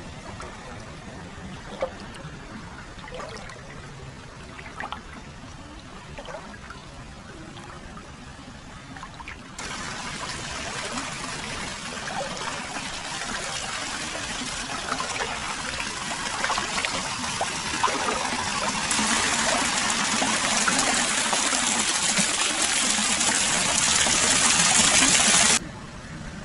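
Hot-spring water flowing continuously into a foot bath: faint trickling with a few small drips at first, then a sudden jump to louder splashing and pouring water about ten seconds in, louder again later, which cuts off abruptly near the end.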